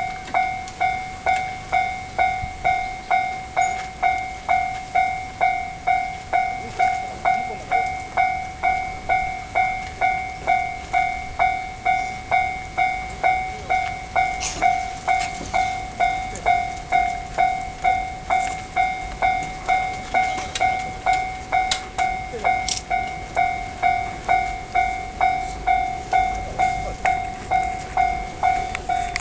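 Japanese railway level-crossing warning bell ringing in a steady repeating clang, a little under two strikes a second, as a train approaches. Scattered sharp clicks join it about halfway through.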